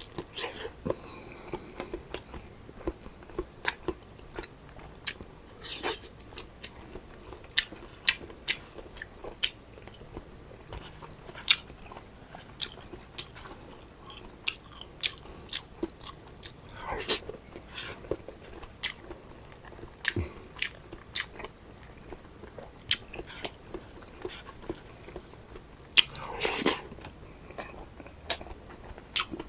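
Close-miked chewing and biting of food, with many sharp wet mouth clicks and crunches. Twice, about 17 and 26 seconds in, there is a longer, louder eating sound.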